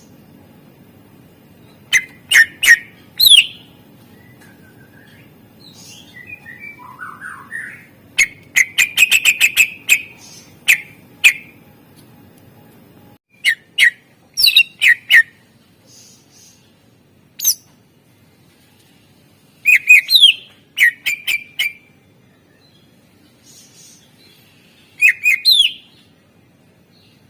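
A greater green leafbird (cucak ijo) singing hard in loud bursts of sharp, whistled notes and chirps, many falling in pitch, separated by short pauses. About eight seconds in there is a rapid chattering run of notes. A faint low hum underneath cuts off about halfway through.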